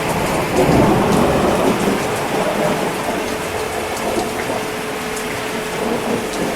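Steady heavy rain, with a low rumble of thunder swelling about half a second in and fading by about two seconds. A faint steady hum runs underneath.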